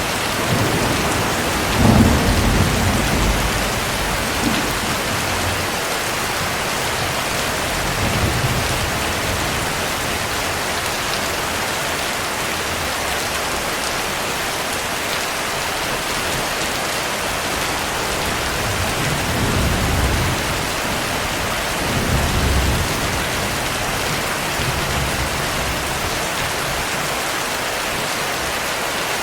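Steady heavy rain with low rolls of thunder: the strongest about two seconds in, another around eight seconds, and two more close together past the middle.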